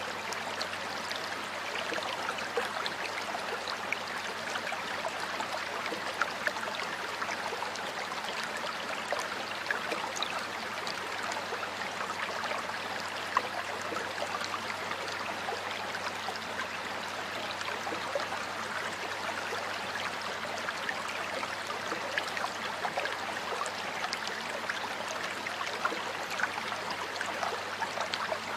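A stream of water flowing steadily over rocks, a constant babble with small splashes and gurgles scattered through it.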